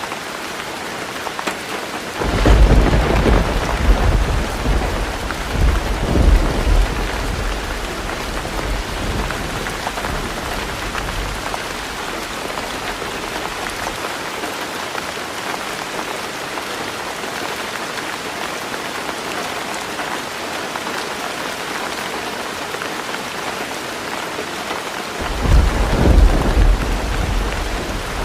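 Heavy rain falling on a tin roof as a steady hiss, with two rolls of thunder: one starting about two seconds in and rumbling on for several seconds, another starting near the end.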